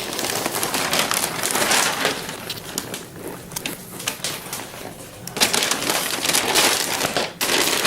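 Gift wrapping paper being torn and crumpled, a dense crackling rustle that eases off in the middle and comes back loud for the last couple of seconds.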